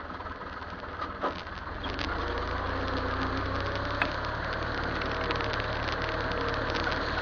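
Massey Ferguson tractor engine running steadily, getting louder about two seconds in.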